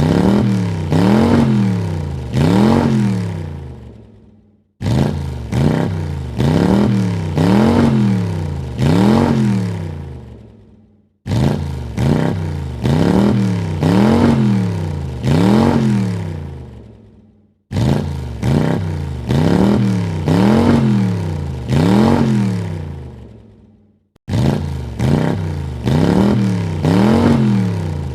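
Car engine revved in four quick throttle blips, the pitch climbing and falling with each, then dying away. The same short recording repeats about every six and a half seconds, each time cutting off suddenly to silence before starting again.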